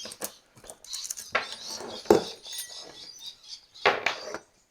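Light metallic clicks and knocks of tools and small chainsaw parts being handled during disassembly, a handful of separate sharp strikes, the loudest about two seconds in and another cluster near four seconds.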